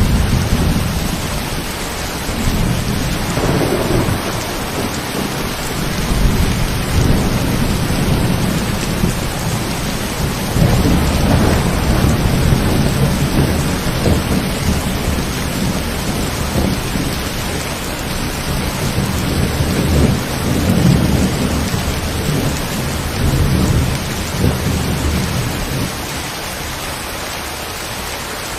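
Steady rain hissing, with a long rolling rumble of thunder that swells and ebbs and dies away near the end.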